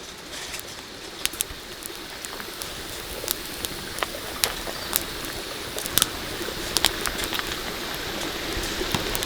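Steady rain that grows gradually louder, with scattered sharp ticks and pops.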